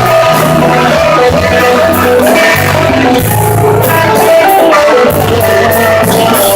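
Live blues-rock band playing at a soundcheck: a guitar melody over a steady bass line, with cymbal hits from the drums.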